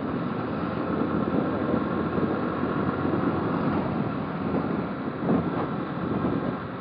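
Motorcycle running at road speed, its engine blended with heavy wind rush on the camera microphone, with a brief louder surge about five seconds in.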